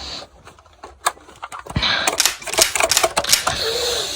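Rapid plastic clicking and clattering from a Nerf foam-dart blaster's mechanism being worked, typical of trying to clear a jam. The clicks start after a quiet second and a half and come thick and fast for about two seconds.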